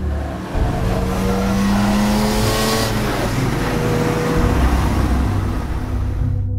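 BMW E30's swapped-in S50 straight-six engine revving under load, its note slowly climbing, with a rush of noise that swells about two to three seconds in.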